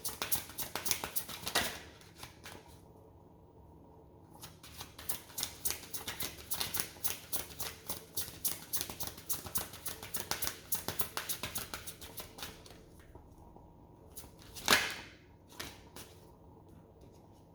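A deck of tarot cards being shuffled by hand: rapid runs of crackling card flicks in two spells. Near the end there is one louder slap.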